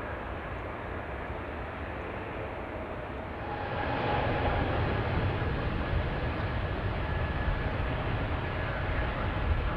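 Airplane engine noise, a steady rush with a faint whine, getting louder about three and a half seconds in.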